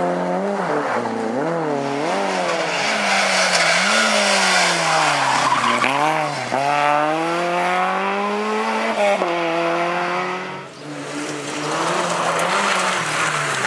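Rally car engine revving hard, its pitch rising and falling again and again through gear changes and lifts, with tyre noise underneath. It drops off briefly about eleven seconds in, then picks up again.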